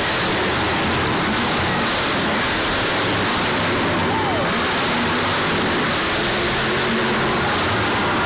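Monster truck engine running loud, heard as a dense, steady rush of noise, with a falling pitch about four seconds in.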